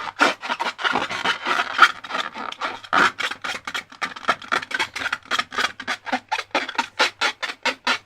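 Slime being worked, a quick irregular run of short sticky clicks and rubbing strokes, about four to six a second.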